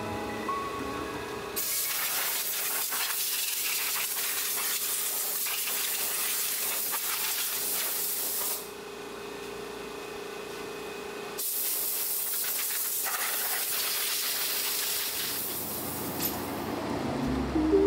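A steady hissing jet of spray or air during a car detail, in two long bursts of several seconds each with a pause of a few seconds between them.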